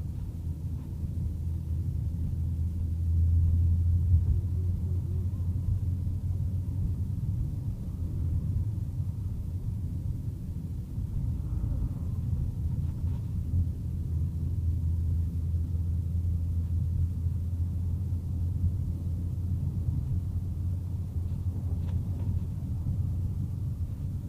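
Steady low rumble of a car driving, heard from inside the cabin: engine and road noise, swelling slightly a few seconds in.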